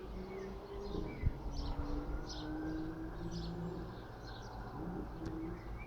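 Small birds chirping over and over, short high calls, with a faint, slowly wavering tone and a low rumble behind them.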